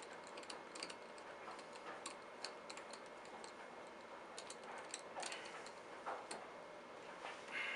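Faint, irregular small metal clicks and ticks as the screw and nut holding the old cloth bag on a 1962 Hoover Senior 652A vacuum cleaner are worked loose.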